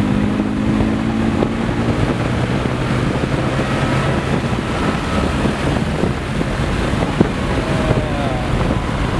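Twin-turbo BMW S65 V8 of an E92 M3 pulling hard at full throttle in fourth gear toward about 150 mph. The engine note is clear for the first couple of seconds, then is mostly buried under a heavy rush of wind and road noise.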